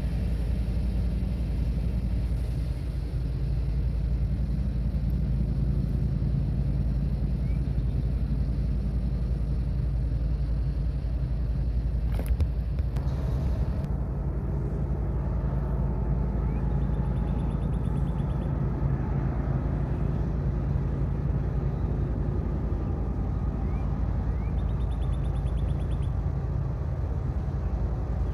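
Diesel freight locomotive engines running in a steady low drone, holding a constant speed, with one short click about twelve seconds in.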